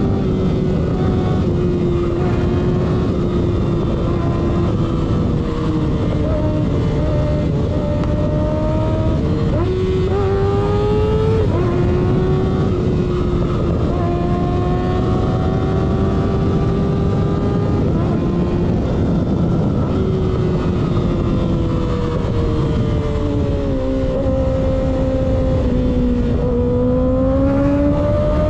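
Kawasaki ZX-6R inline-four through a baffle-less M4 slip-on exhaust, heard onboard while riding: it runs at fairly steady revs, climbs in pitch about ten seconds in and again near the end, and drops in pitch in a few steps about three quarters of the way through. A steady low rush of wind and road noise runs under it.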